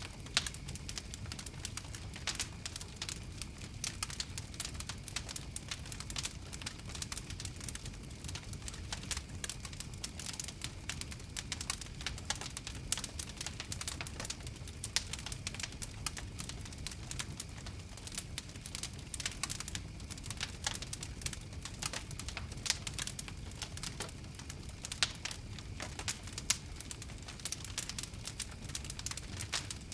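Wood fire crackling: many small irregular pops and snaps over a steady low rumble of the flames.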